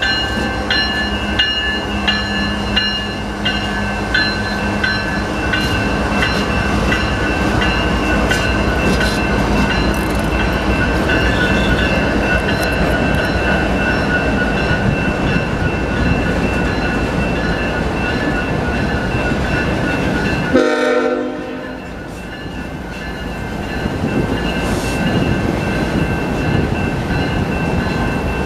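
BNSF freight train rolling through a grade crossing: a loud, steady rumble of cars on the rails, with a crossing bell ringing throughout. A short locomotive horn blast sounds about 21 seconds in.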